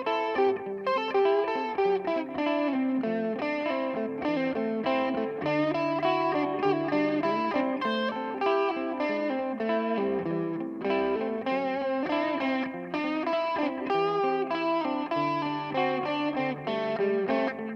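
Electric guitar played through a Donner Yellow Fall delay pedal: a continuous run of picked notes and chords.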